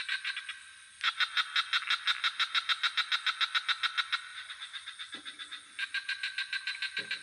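Night chorus of frogs and crickets: rapid pulsing calls, about seven a second, that break off briefly near the start and resume, over a steady high insect buzz, with two short low frog croaks in the second half.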